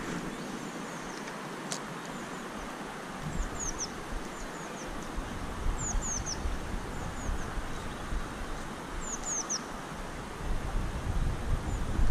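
A small bird calling repeatedly: quick high notes, each falling in pitch, in runs of two or three every couple of seconds, over a steady outdoor hiss. A low rumble grows near the end.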